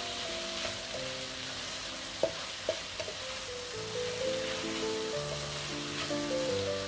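Yam abacus seeds, mushrooms and vegetables sizzling steadily in oil as they are stir-fried in a non-stick pan, with a few sharp spatula taps against the pan about two to three seconds in. Soft background music plays underneath.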